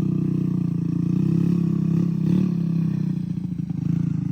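Moped with a swapped-in engine running, a steady pulsing engine note that swells slightly about two seconds in and eases off near the end.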